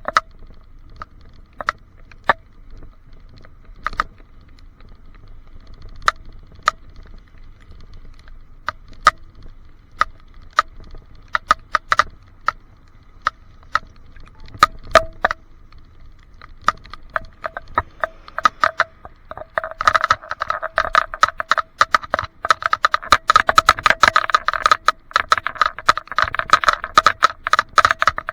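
Sharp clicks and rattles picked up inside an action camera's plastic waterproof case, each with the same ringing tone. They come a few at a time at first, then turn into a dense, continuous rattle about twenty seconds in. This is the weird rattling whose cause the owner doesn't know.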